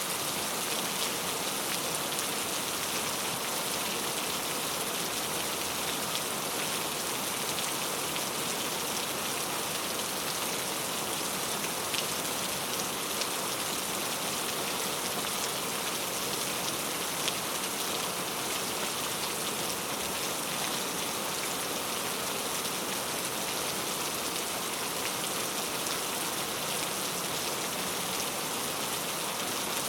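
Steady rain falling and pattering on a surface, an even hiss with a few single drops standing out now and then.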